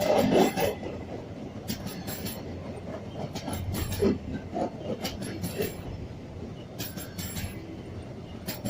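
Railroad cars rolling past over a steady rumble, their wheels clacking over rail joints in clusters of clicks that come about every second and a half.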